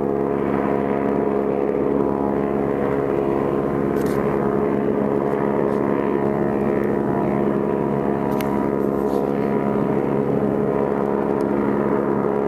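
Helicopter flying overhead: a steady, unbroken drone of rotor and engine, heard as a stack of even, steady tones.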